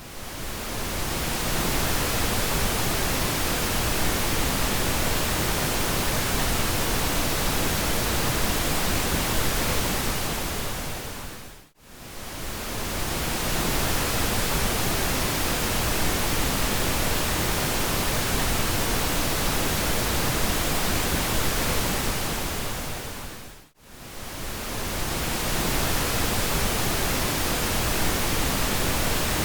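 Steady pink noise, an even rushing hiss across all pitches. It fades in at the start, then twice, about twelve seconds apart, fades briefly to silence and swells back, as a looped track does.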